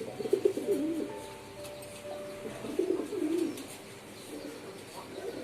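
Pigeons cooing in two bouts, one right at the start and another about three seconds in.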